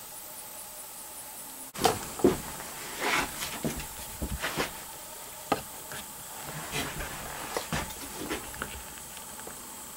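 Steady hiss, then after a cut about two seconds in, a string of irregular knocks, clicks and rustles of gear being handled, the loudest two close together just after the cut.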